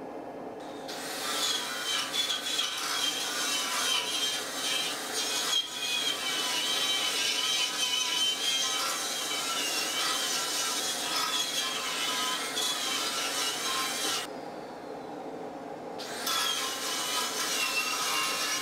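Power-tool wire wheel scouring rust off a steel tractor rim: a steady grating rush over a wavering high motor whine. It stops about 14 seconds in and starts again about two seconds later.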